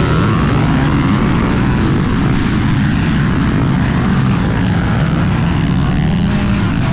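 Off-road dirt bike engine running hard at a fairly steady pitch.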